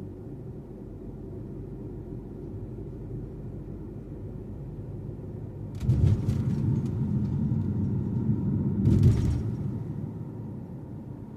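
Steady low road and engine rumble of a car driving, heard from inside the cabin. It is broken by two louder crackling rumbles, one about six seconds in and a shorter one about three seconds later.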